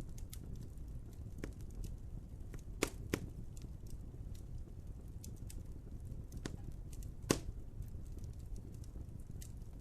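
Wood fire crackling: a steady low rumble of burning with frequent small sharp pops, and three louder snaps, two close together about three seconds in and one after seven seconds.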